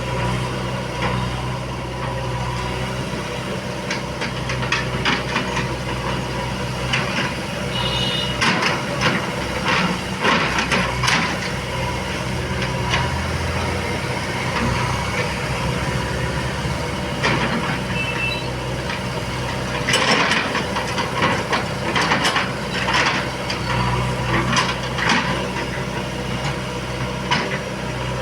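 Heavy diesel engine of earth-moving machinery running steadily, with repeated knocks and clatter over it, denser at times.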